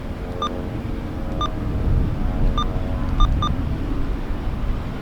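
Steady low airfield rumble, with about six short, identical electronic beeps at uneven intervals and faint steady tones under it in the first few seconds.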